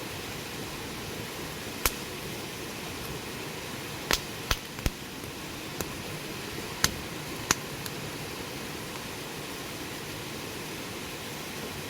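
Wood campfire burning with a steady hiss, with a handful of sharp pops and crackles: one about two seconds in, a cluster of three around four to five seconds, and two more around seven seconds.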